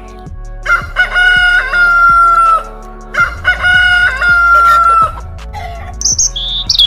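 Rooster crowing twice: each crow opens with a few short notes and ends in a long held note that sinks slightly at the close. Brief high chirping follows near the end.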